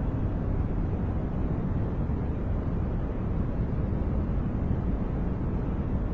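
Continuous noise track sold as white noise for focus and sleep: an even, unchanging deep rush with most of its weight in the bass and little treble, nearer a brown-noise rumble than a bright hiss.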